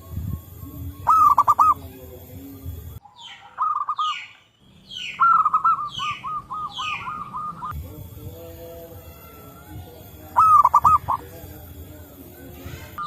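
Zebra doves cooing: four bursts of quick, stuttering coo notes, the longest a run of about eight notes. Between about 3 and 7 seconds another bird adds a string of high, falling chirps. The sound cuts out abruptly twice, as at a splice.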